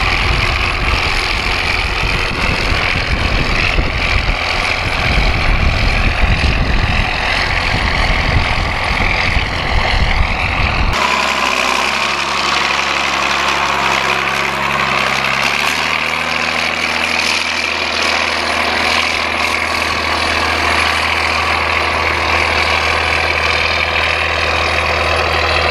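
John Deere 4450 tractor's diesel engine running steadily while planting. About eleven seconds in the sound changes abruptly from a rough, heavy rumble to a smoother, steadier hum.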